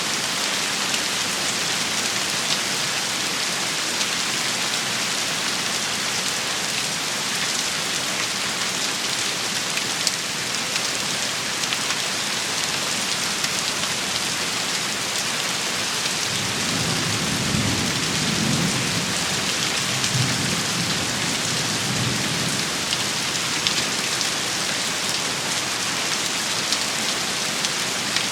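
Steady heavy rain shower, a dense hiss of drops with scattered sharper ticks of drops striking a surface. About two-thirds of the way through, a low rumble of thunder rolls for several seconds.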